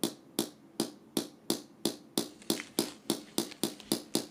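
A regular series of sharp ticks, gradually speeding up from about two and a half to about four a second.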